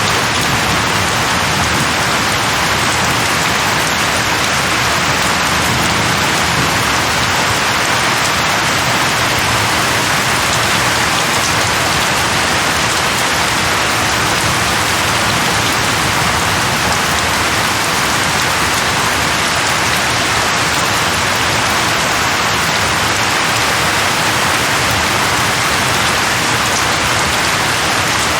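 Steady rain falling on leaves, an even hiss of drops without letting up.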